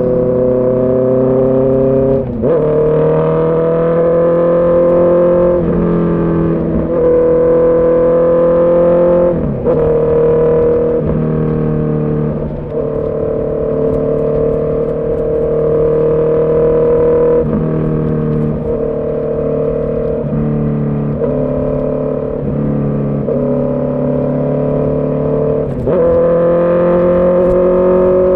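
Honda CB650R's 649 cc inline-four engine and exhaust under way, pulling up through the revs in each gear with short dips and pitch jumps at the gear changes.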